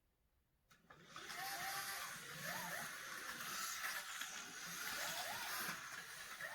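Intelino smart toy train on its track making a steady rushing noise that starts about a second in and runs on, with a few faint wavering tones through it.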